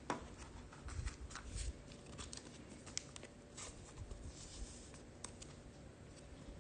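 Faint handling of trading cards: scattered light taps, clicks and slides of cards being sorted by hand, with a few soft thumps.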